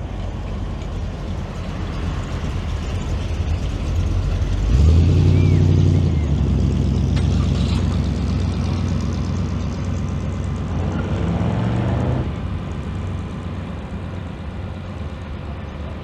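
A car engine passing close by: it swells to its loudest about five seconds in, holds steady, drops off at about twelve seconds and then fades away.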